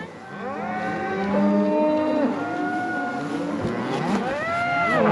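A herd of cattle mooing, several calls overlapping one another, with one long call that rises and then falls near the end.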